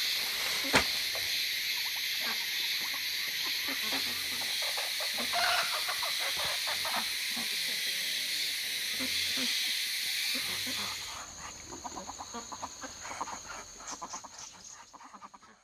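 Steady high-pitched insect chorus with many short animal calls scattered through it. The chorus cuts off about eleven seconds in, and the remaining calls fade out near the end.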